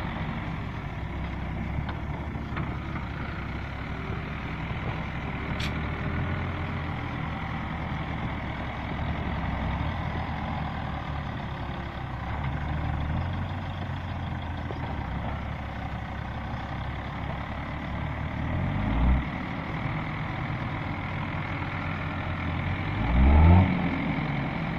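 A Hino FG truck's ADE 366 six-cylinder diesel engine running steadily. Its revs rise briefly twice in the last few seconds, the second time louder.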